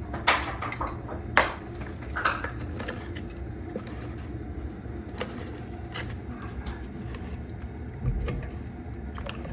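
A few sharp knocks and clicks over a steady low hum.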